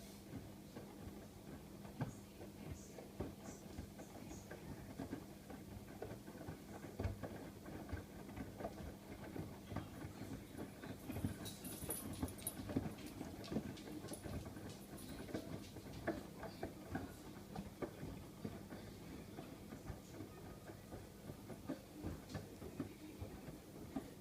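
Miele WKF120 washing machine running a cottons 90 wash: a steady low hum with many irregular light knocks and clicks.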